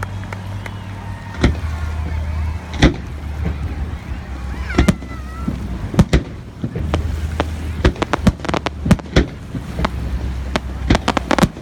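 Fireworks going off: a rapid, irregular string of sharp bangs and cracks, a dozen or more, with the loudest around a quarter and halfway through, over a steady low hum.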